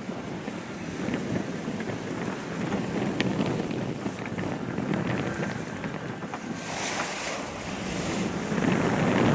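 Wind buffeting the microphone and sea water rushing past a sailboat under way, rising and falling in gusts and swells, with a few faint small clicks.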